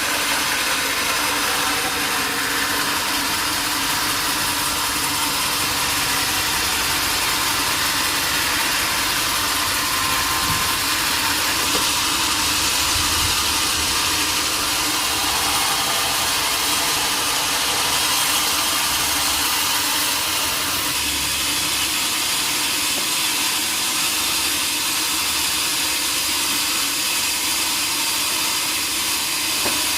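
Sawmill machinery running steadily: an even, continuous hiss with a low mechanical hum underneath.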